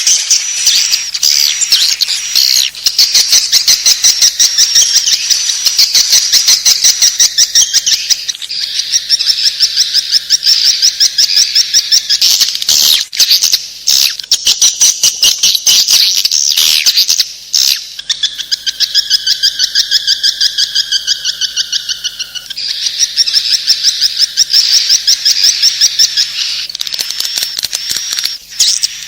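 Swiftlet calls: loud, rapid twittering chirps, several a second, running on with only brief breaks, over a faint steady hum.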